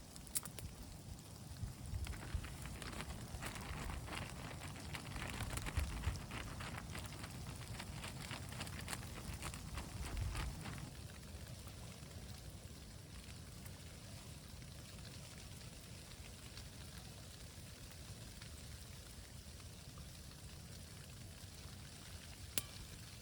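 Faint, irregular pattering of precipitation over a low wind rumble. The pattering is densest in the first ten seconds or so, then eases to a quiet hiss.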